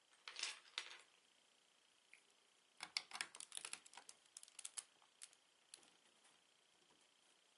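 Plastic Lego pieces clattering and clicking as they are handled. There is a short rattle near the start, then a quick run of small clicks and taps for about two seconds, thinning to a few scattered ticks.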